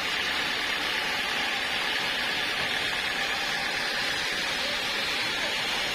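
Sawmill saw running steadily, a constant hissing noise with no change in level.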